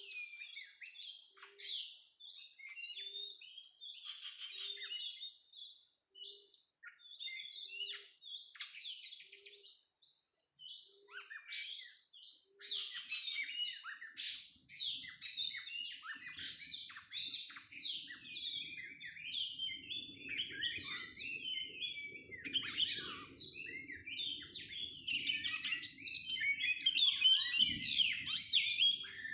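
Oriental magpie-robin singing, a rapid unbroken run of varied chirps and whistles. A faint low pip repeats about once a second in the first half, and a low rustling noise comes in about halfway through.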